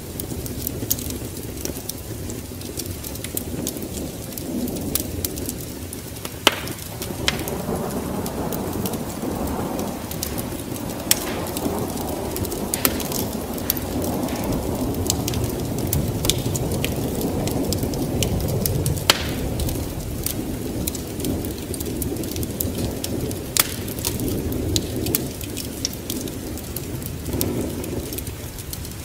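Wood fire in a fireplace crackling, with sharp pops scattered irregularly, over a steady low rumbling noise that swells in the middle and eases again.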